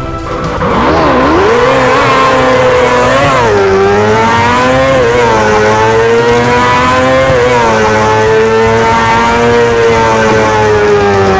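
Motorcycle engine held at high revs. Its pitch dips sharply about a second in, then climbs and wavers up and down as the throttle is worked.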